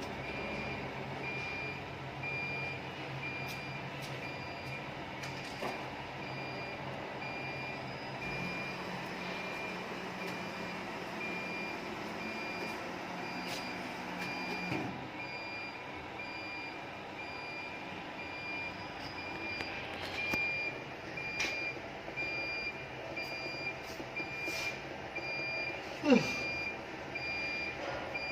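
An electronic beeper sounds a steady run of evenly pulsed high beeps over the low hum of running machinery. The hum drops away about halfway through, and there is a single sharp knock near the end.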